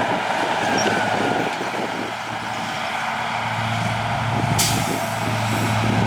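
Heavy diesel earthmoving machinery running, its engine hum growing stronger past the halfway point, with one short sharp hiss of air about four and a half seconds in, like an air brake releasing.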